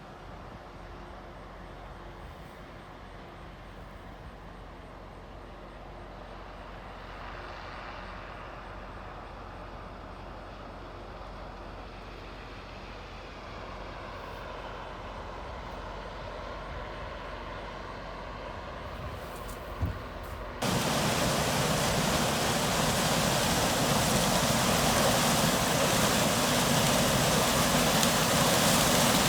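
Harvest machinery running steadily and slowly growing louder, then a single knock. Shortly after, the sound switches abruptly to a much louder, even rushing noise.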